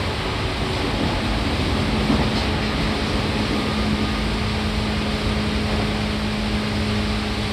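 Seibu 2000 series electric train running, with a steady rumble of wheel and rail noise. A steady low hum comes in about a second in and holds.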